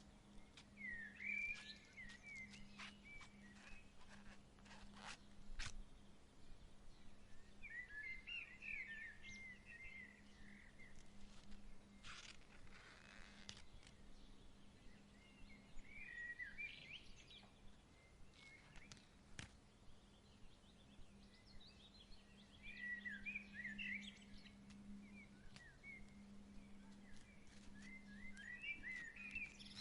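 A songbird singing short warbled phrases, repeated every six or seven seconds, over a faint steady low hum, with scattered light clicks and a brief rustle about halfway through.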